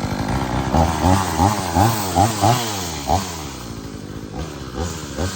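Cheap 20-inch two-stroke chainsaw running just after restarting, its throttle blipped in quick repeated revs, about three a second, then settling lower with a few single revs near the end.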